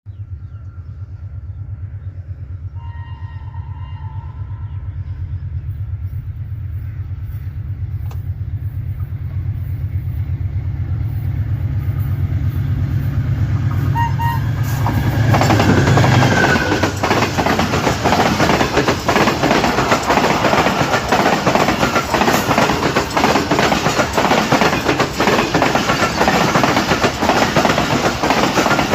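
A train approaching, its locomotive rumbling low and growing steadily louder, with a short horn blast about three seconds in. About halfway through, the train reaches the microphone and the cars pass close by, with a loud continuous clatter of wheels over the rail joints.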